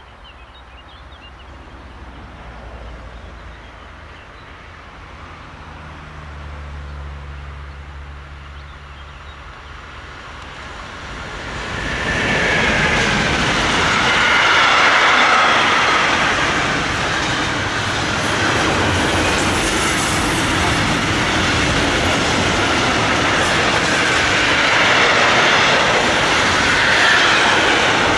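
Freight train behind an SBB Cargo Re 482 electric locomotive approaching with a low hum. About twelve seconds in it grows loud as the freight wagons pass close by, wheels rattling over the rails with some wheel squeal.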